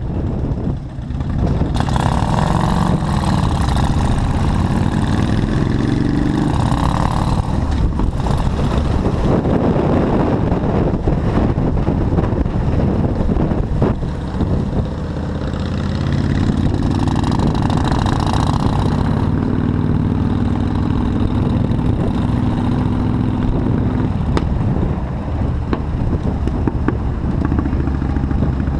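Motorcycle engine running while riding, its pitch rising twice as it speeds up, with wind rush on the microphone.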